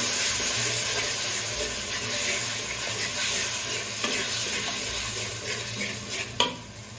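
Spice masala with tomato paste sizzling in hot oil in an aluminium pot while a metal spatula stirs and scrapes through it, the masala being fried down. The sizzle quietens near the end, with one sharper scrape of the spatula shortly before.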